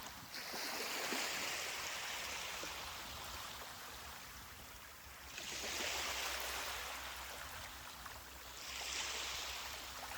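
Ocean waves breaking and washing up the beach, three surges, each swelling and then fading over a few seconds.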